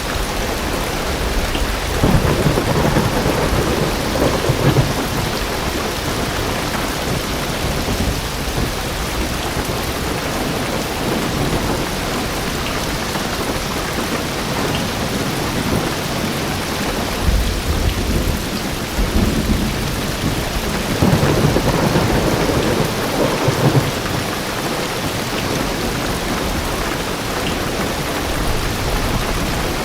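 Heavy rain drumming steadily on a car roof and windows, heard from inside the car, with deep rolls of thunder about two seconds in and again from about seventeen to twenty-four seconds.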